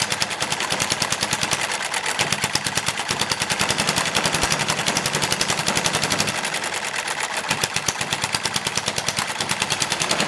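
Small shop-built hit-and-miss engine running fast with a rapid, even clatter, its hit-and-miss governor set by a newly fitted spring. The desk it is clamped to rattles along with it, and so do the loose things on it.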